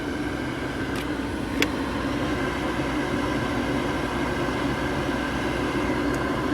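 Steady idle of a 2007 Volkswagen City Golf's 2.0-litre four-cylinder engine, with the ventilation fan blowing, heard from inside the cabin. Two light clicks come about a second and a second and a half in.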